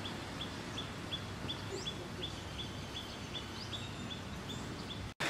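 A bird repeats a short, high note about three times a second, with a faint rising whistle now and then, over steady outdoor background noise. The sound cuts off abruptly near the end.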